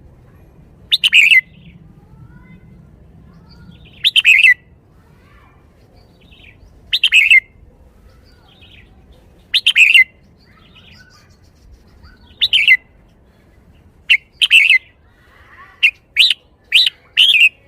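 Red-whiskered bulbul singing short, loud, whistled phrases about every three seconds, then a quicker run of short notes near the end. This is the song style its keepers call 'bottle-shaking'.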